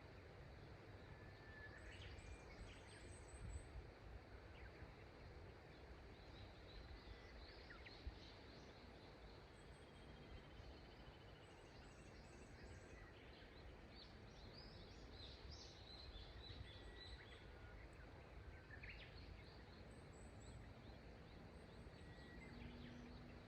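Faint, steady rush of the Shimanto River with small birds calling: short chirps and trills scattered all through, busiest around the middle.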